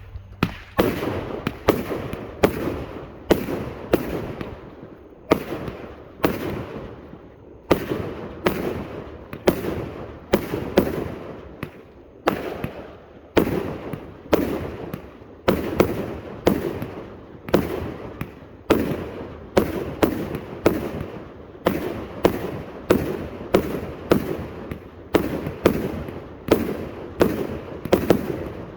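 A 400-shot salute firework cake firing a steady string of sharp reports, roughly one to two a second, each trailing off briefly before the next.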